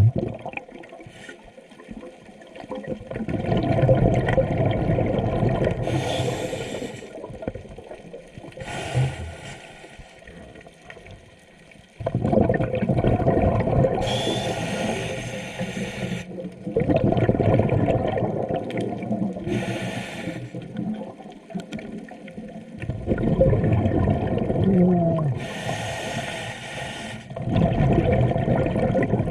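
A scuba diver breathing through a regulator underwater: a short hiss on each inhale, then a longer bubbling rush of exhaled air, about five breaths in all.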